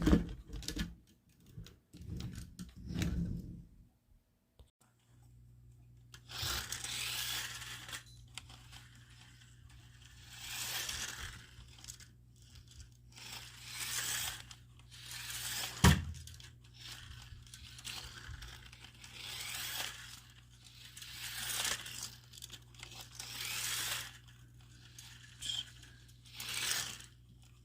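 Micro 1/35-scale RC car driven in repeated short bursts: rasping runs of its tiny electric motor and tyres scrubbing and skidding on the floor as it spins and peels out, every second or two, with one sharp knock about halfway through.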